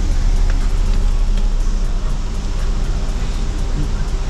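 Car engine idling with a steady low hum, heard from inside the cabin with a side window open.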